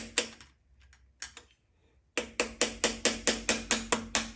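Quick hammer blows, about four to five a second, driving a piston and connecting rod out of a cylinder bore in a Chevy 350 V8 block. Each blow has a brief metallic ring. A couple of blows come at the start, then a pause of nearly two seconds, then a steady run of blows to the end.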